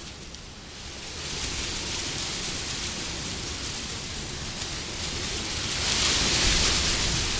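Wind blowing in gusts as a steady rushing noise. It eases about half a second in, then builds to a stronger gust around six seconds in.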